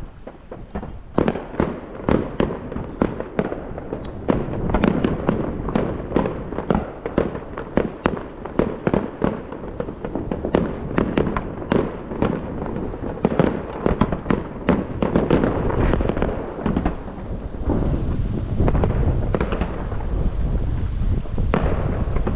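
Fireworks display: a rapid, continuous barrage of bangs and crackles, several a second, over a rolling rumble of distant booms echoing.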